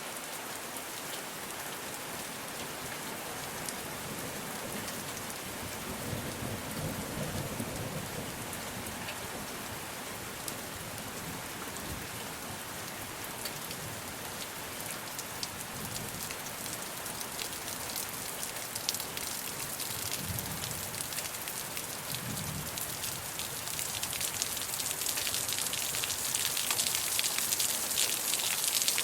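Steady rainfall with many individual drops pattering on surfaces, growing heavier and brighter over the last few seconds. A few low rumbles come in about a quarter of the way in and again about two-thirds through.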